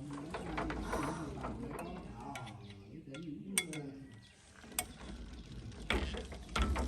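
Hand tools clinking and clicking on tractor metal parts during a repair, with sharp single knocks about halfway through and a cluster of them near the end. A wavering pitched sound runs through the first three seconds.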